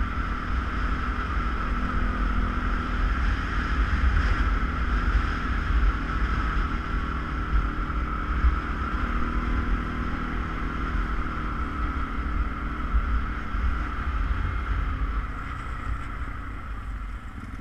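ATV engine running under way, a steady low rumble with a steady whine above it, with wind buffeting the microphone; the level eases off a little near the end.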